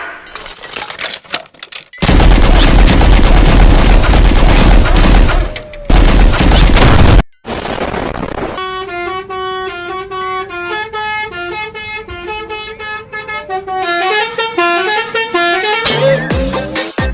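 Very loud, harsh blaring noise for about five seconds, broken once briefly. After a short silence comes a Basuri telolet multi-tone bus horn playing a stepping horn tune for about seven seconds, ending in a rising glide.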